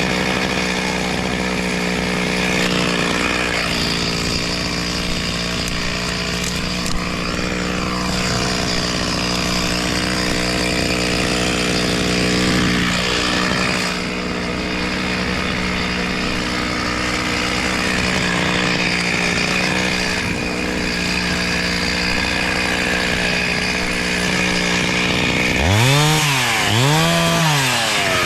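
Two-stroke chainsaw running at high speed on a steady note, with small dips, then revved up and down three times near the end.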